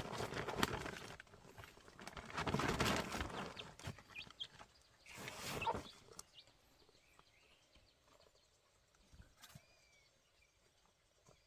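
Chickens and geese outdoors: three noisy rustling bursts in the first half, then quieter, with a few faint chirps and clicks.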